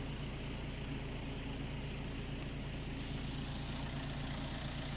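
Steady low hum of an idling engine, with a steady high-pitched buzz above it that grows a little stronger in the second half.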